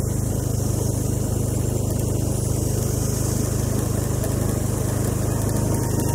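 An engine running steadily at an even speed, with a steady high hiss above it.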